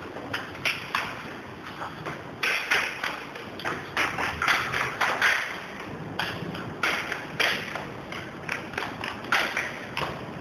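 Hailstones striking hard surfaces: an irregular clatter of sharp taps and pings, several a second and of varying loudness, over a steady hiss of rain.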